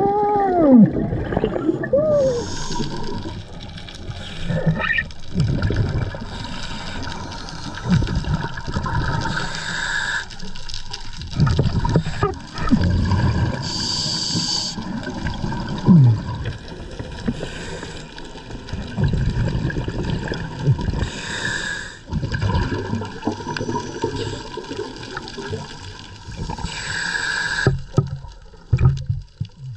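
Scuba diver breathing underwater through a regulator: a hiss on each inhale, alternating every few seconds with rumbling, gurgling bursts of exhaled bubbles.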